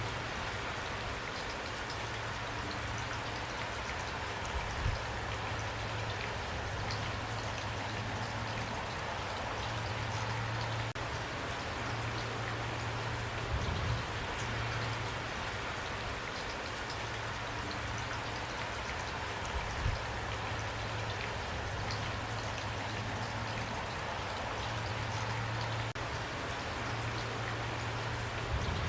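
Steady rain falling, an even hiss of raindrops, with a few brief louder drops or knocks standing out now and then.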